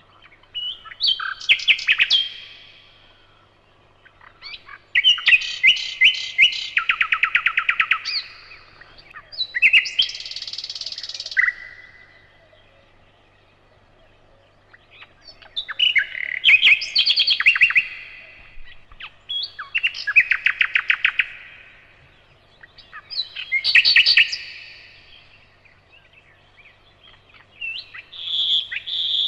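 Nightingale singing: a string of separate song phrases, each a second or two of fast repeated notes and rattling trills, with pauses of a couple of seconds between them.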